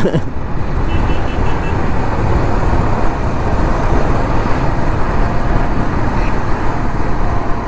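Steady road-vehicle noise: a dense, even rumble with no clear rise or fall.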